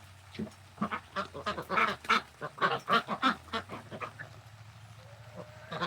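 Ducks and geese quacking and honking in a rapid run of short calls, easing off for a second or two before starting up again at the end.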